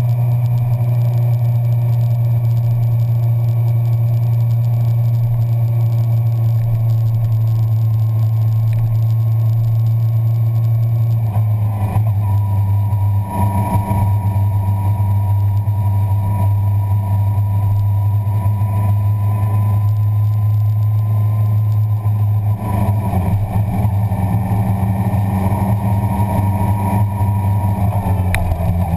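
Suzuki sport motorcycle engine running steadily at low revs, its note changing about twelve seconds in and again about ten seconds later.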